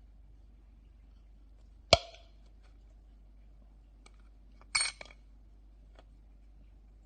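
Small metal parts and a hand tool clicking and clinking during disassembly of a Lenco turntable idler wheel: one sharp click with a short metallic ring about two seconds in, a brief rattle near five seconds, and a few faint ticks.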